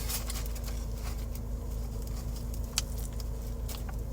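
Steady low mechanical hum with a few faint clicks scattered through it and one sharper click nearly three seconds in.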